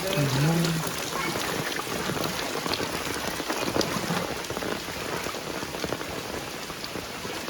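Heavy rain falling steadily, with many close drops pattering sharply over the dense hiss. A short low voice-like call bends up and down within the first second.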